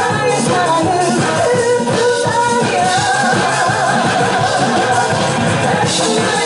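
Loud live music from a pumba troupe's performance, with a wavering melody line over a steady rhythm.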